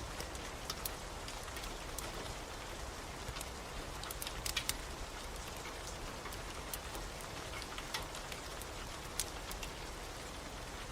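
Steady rain falling, mixed with a wood fire's irregular sharp crackles and pops, a cluster of them about four to five seconds in.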